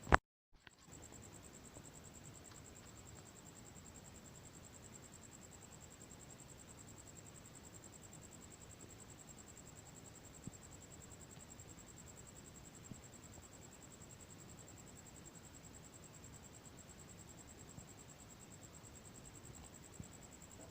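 Bonfire crackling faintly, with a few sparse single pops, over steady high insect chirring from crickets. Near the start there is one sharp click followed by a brief dead gap, like a loop seam in the recording.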